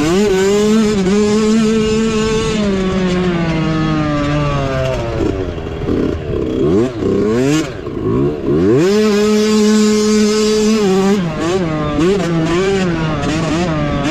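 Small mini bike engine revving hard under racing load. It holds high revs, eases off, then blips up and down several times quickly about midway and holds high revs again.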